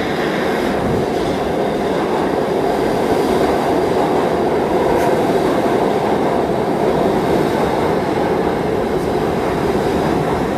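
New York City subway train running on the track, a loud, steady rush and rumble of wheels and car.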